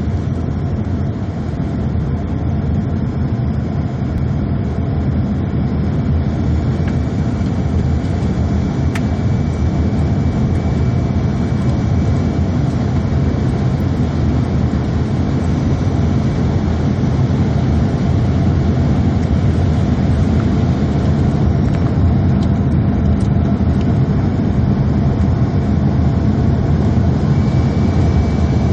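Airliner passenger-cabin noise in flight: a steady low drone of the engines and rushing air, slowly growing a little louder.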